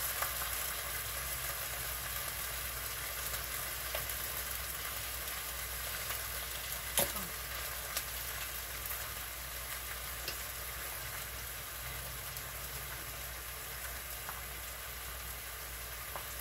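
Bok choy sizzling in hot oil in a frying pan, a steady sizzle that eases off slightly, with a few sharp clicks, the loudest about seven seconds in.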